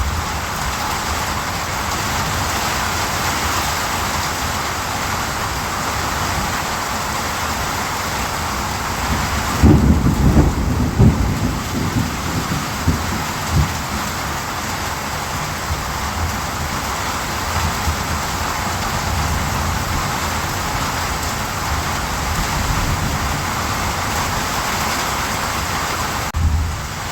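Steady rain falling, with a low rumble swelling about ten seconds in and dying away over the next few seconds.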